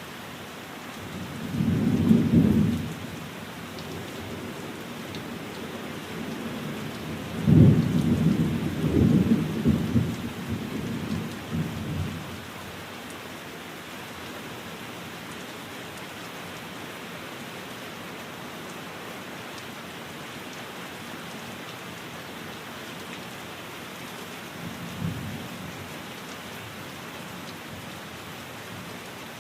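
Steady rain with rolling thunder: a low rumble about two seconds in, a longer and louder roll with several peaks from about seven to twelve seconds in, and a faint one near the end.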